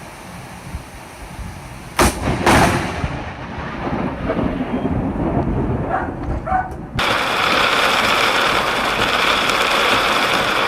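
Close thunder from a nearby lightning strike: two sharp cracks about two seconds in, half a second apart, then rumbling that fades. About seven seconds in, a loud steady rushing noise starts abruptly.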